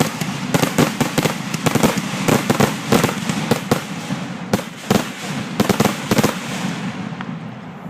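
Fireworks going off in a rapid volley: many sharp cracks and bangs in quick succession, thinning out after about six seconds and dying away near the end.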